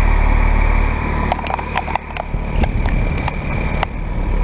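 2017 3-ton Carrier Comfort heat pump running in cooling mode: steady hum from its LG scroll compressor and fan. A run of sharp clicks or taps comes in the middle.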